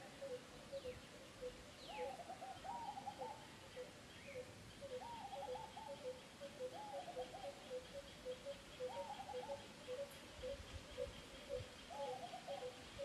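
Birds calling: a steady run of short, low repeated notes, two to three a second, with a brief phrase of quicker, higher notes every two to three seconds.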